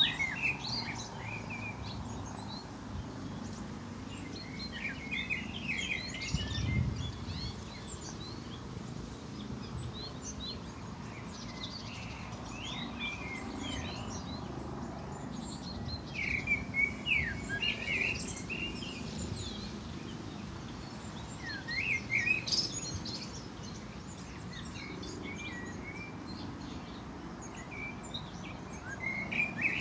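Small birds chirping and twittering in short bursts every few seconds over a low, steady background rumble.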